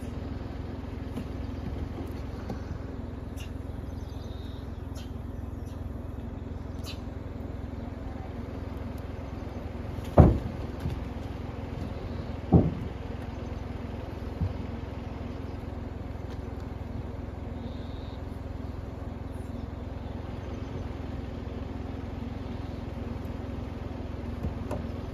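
An SUV's engine idling with a steady low hum. Two loud thumps about ten and twelve seconds in, and a smaller one a couple of seconds later, as gray langurs jump and land on the car's body.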